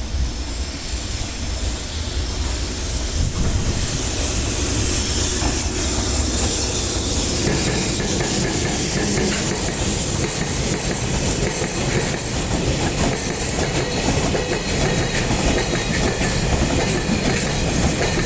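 Freight train passing, its wagons' wheels clattering over rail joints with a high metallic squeal from the wheels. The sound builds for the first few seconds and then stays steady.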